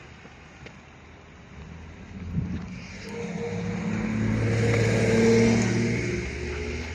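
Turbo-diesel engine of a Hyundai County bus running under throttle. It grows louder from about two seconds in, after a short knock, peaks past the middle and eases off near the end.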